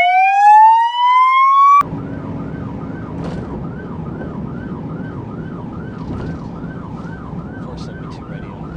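Police siren rising in a loud wail, then switching abruptly with a click, about two seconds in, to a quieter fast yelp that sweeps up and down about two and a half times a second. A low steady vehicle hum runs underneath.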